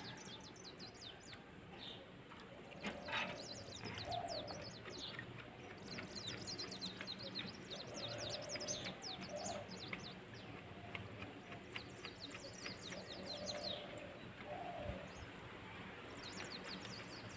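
Small birds chirping in quick runs of short, high, falling notes, faint throughout. There is a brief soft knock about three seconds in.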